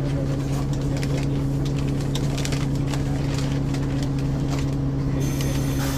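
Ikarus 435 bus's diesel engine running at a steady, unchanging speed, a constant drone, with light rattling in the background.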